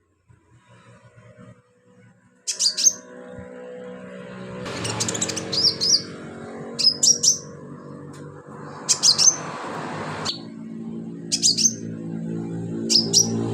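Sunbird (kolibri) singing in full voice: short, sharp, high-pitched chirping phrases repeated about every two seconds. A steady low hum runs underneath.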